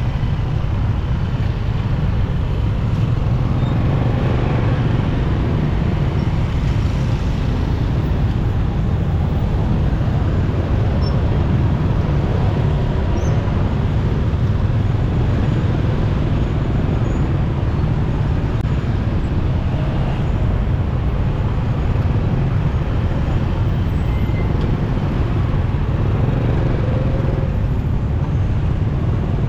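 Motorcycle riding through city traffic: a steady low rumble of engine and road noise with no distinct events.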